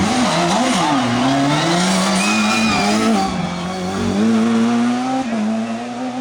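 Rally car engine revving hard, pitch rising and falling through gear changes and lifts, with some tyre squeal as the car is driven through a stage.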